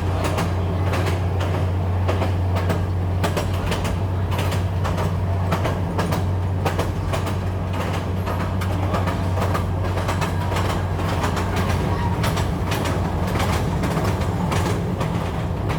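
Train running on the track: a steady low rumble with dense, irregular rattling and clicking from the wheels and carriage.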